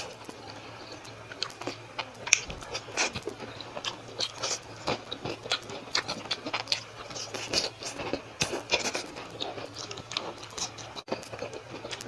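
Close-up chewing and mouth sounds of someone eating fried milkfish with her fingers: a run of irregular sharp clicks and wet smacks. Heavy rain sounds faintly in the background.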